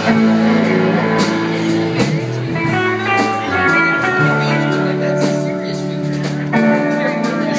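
Live band music: an instrumental passage between sung lines, with held notes over a steady bass line.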